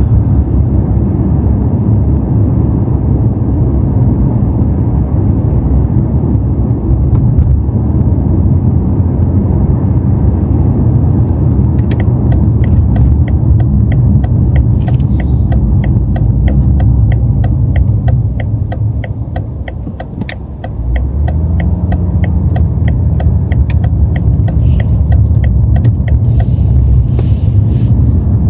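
BMW M5 driving along, a steady low rumble of engine and road noise heard from inside the cabin. The rumble dips briefly about twenty seconds in, then builds again. From about twelve seconds in, a regular ticking runs alongside it.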